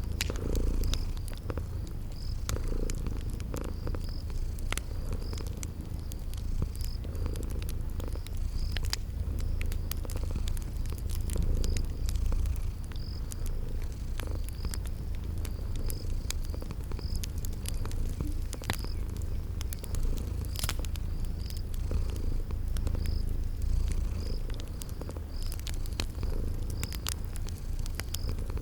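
Cat purring steadily, mixed with fire crackling in scattered sharp pops and a cricket chirping at an even pace about once a second.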